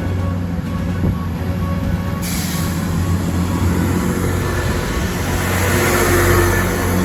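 Diesel train running past, its engine a steady low hum. About two seconds in a loud hiss of wheel and rail noise comes in, growing louder towards the end.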